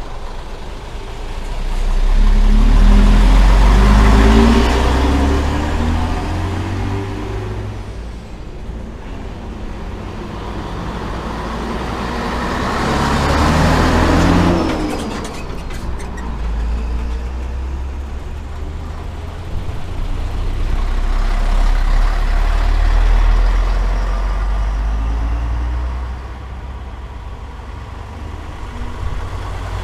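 Vintage Scania-Vabis trucks' diesel engines driving past one after another. Engine noise swells and fades three times: about two seconds in, around twelve seconds in and around twenty-one seconds in, the middle one dropping in pitch as it goes by.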